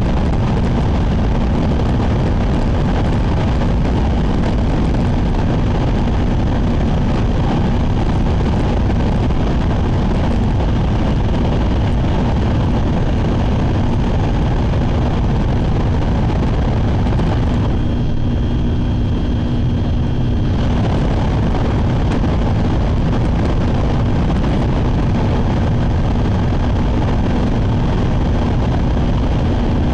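Inside the cabin of a Shinkansen bullet train running at speed: a steady, loud rushing rumble of wheels, track and air. About 18 s in it briefly turns duller for some three seconds, with a faint steady hum, then returns to the same rush.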